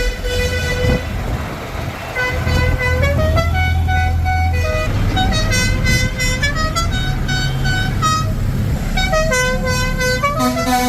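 Tractor musical horns tooting a tune, a run of held notes stepping up and down in pitch, over the steady hum of tractor engines running.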